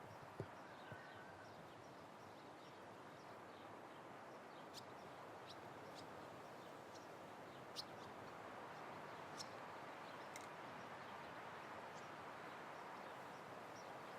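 Faint open-country ambience: a steady, even wash of wind, with small distant bird chirps in the first few seconds and a few sharp ticks scattered through the middle.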